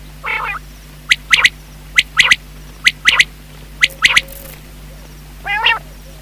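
Common quail calling, used as a hunting call. The song comes in four quick phrases of three sharp notes, one then a quick pair (the "wet-my-lips" rhythm). A short, harsh, nasal call comes just after the start and again near the end.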